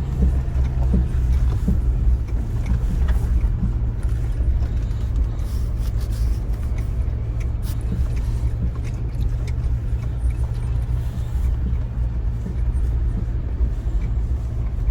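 2025 Chevy Colorado ZR2 driving slowly over a rough dirt trail: a steady low drone of the engine and drivetrain, with scattered light knocks and rattles from the bumpy ground.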